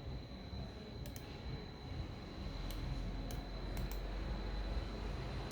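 A few scattered sharp clicks from a computer's keys and mouse, heard about one, three, three and a half and four seconds in, over a steady low background rumble and a faint continuous high whine.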